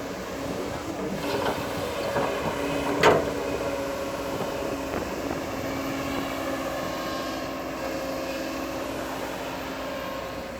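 Bulldozer running steadily, with metallic clanks and one sharp bang about three seconds in.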